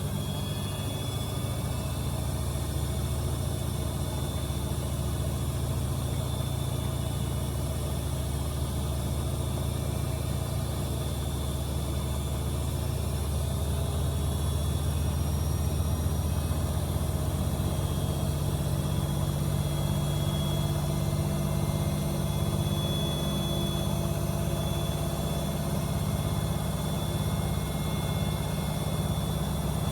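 AEG Öko_Lavamat 74780 front-loading washing machine spinning at speed: a steady motor whine over a strong low hum from the drum, unbroken and even.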